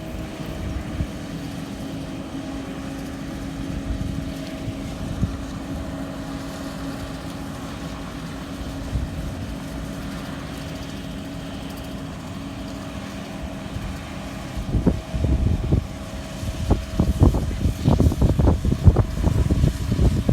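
John Deere combine running steadily with its separator and bean header engaged, a level mechanical hum whose pitch dips slightly about a second in. From about 15 s in, loud irregular gusts of wind buffet the microphone.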